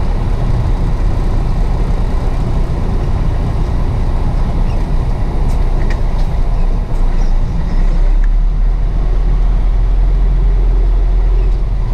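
Truck running, a steady low engine rumble with road noise that grows heavier about eight seconds in.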